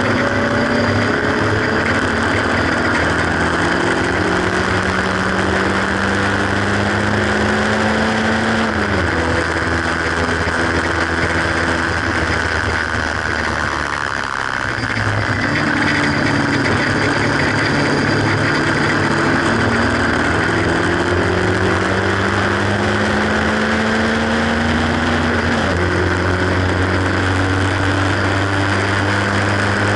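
Haynes Roadster 1800 kit car's engine pulling hard on track, heard on board with wind rush: the engine note climbs slowly, drops sharply at an upshift about a third of the way in, eases off briefly around halfway, then climbs again to another gear change near the end.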